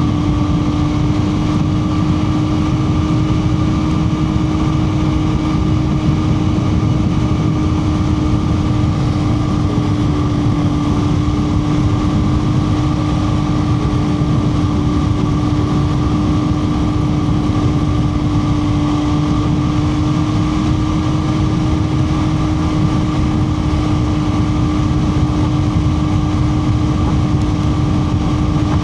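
MV Agusta Brutale 675's three-cylinder engine running through a Termignoni slip-on exhaust at a steady, fairly high RPM while riding. It holds one even pitch, with wind rushing over the microphone underneath.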